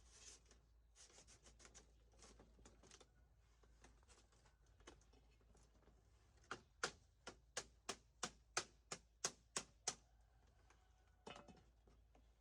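A run of about a dozen sharp, evenly spaced knocks, about three a second, starting about halfway through, after softer rustling and scraping.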